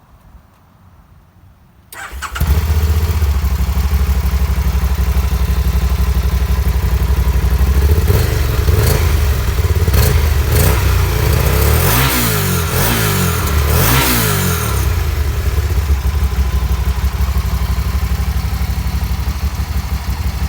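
2009 Can-Am Spyder SM5's Rotax 990 V-twin through its stock exhaust, starting about two seconds in and settling to a steady idle. Between about eight and fifteen seconds in, the throttle is blipped several times, each rev rising and falling quickly, before it drops back to idle.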